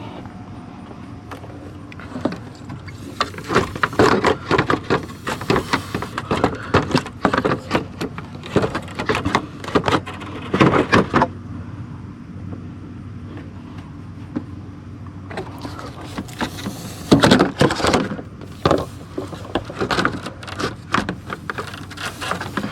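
Irregular clusters of clicks, knocks and rattles from hand tools and loose parts being worked on a car's radiator fan assembly, over a steady low hum.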